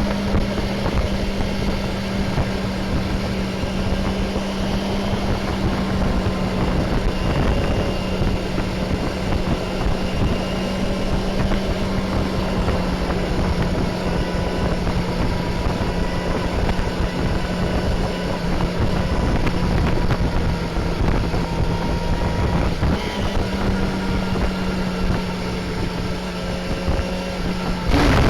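Honda CBR250RR MC22's 250 cc inline-four engine running at a steady cruising pitch while riding, with wind noise on the microphone. The pitch shifts briefly about three-quarters of the way through.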